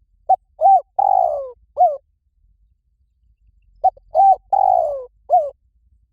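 Spotted dove cooing: two identical phrases about three and a half seconds apart, each of four notes, with a longer falling coo in the middle of each.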